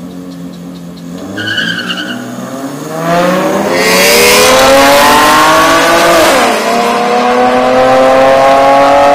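Two cars, one of them an automatic Acura TL, launching hard from a standing start in a street drag race. Their engine pitch climbs steadily, drops briefly at an upshift about six seconds in, then climbs again. The sound is loudest as the cars pass close by, with tyre noise, and a brief high squeal comes before the launch.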